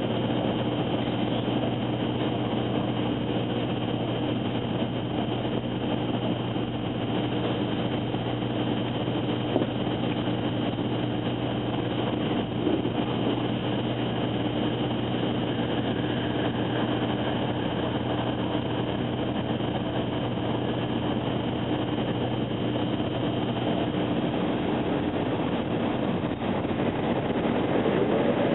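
Cabin running noise of a 700 series Shinkansen heard inside the passenger car: a steady rumble and rush with a few constant hum tones. Some of the hum tones fade out near the end, and there are a couple of faint knocks.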